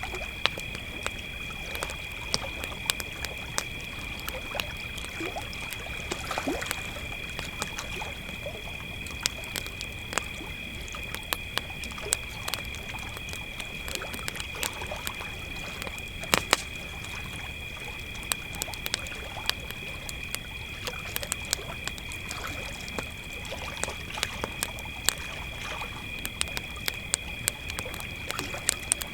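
Crickets trilling steadily and high, over a campfire crackling with irregular sharp pops, one of them louder about halfway through.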